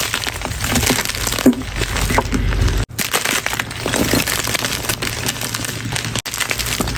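Chalk being crushed: dense, continuous crunching and crumbling, cut off abruptly twice (about three seconds in and again near the end) where clips are spliced together.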